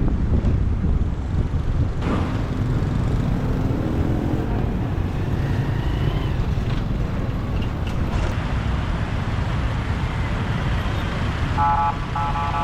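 Steady rumble of wind and road noise from riding a motorbike in city traffic, with vehicles passing. Near the end a vehicle horn beeps twice.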